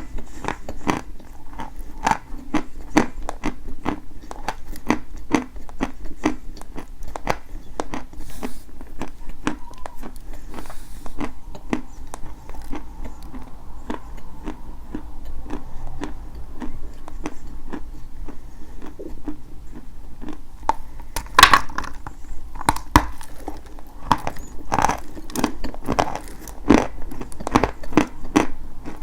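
Dry white chalk being bitten and chewed close to the microphone: a steady run of sharp, brittle crunches. The crunches come louder and thicker about two-thirds of the way through.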